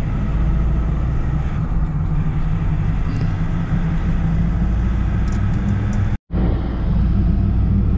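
Steady low rumble of a car's engine and road noise, heard from inside the cabin while driving. The sound drops out completely for a split second about six seconds in.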